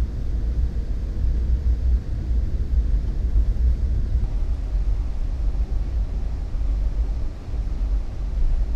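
Steady low rumble of an Amtrak passenger train running at speed, heard inside the coach car.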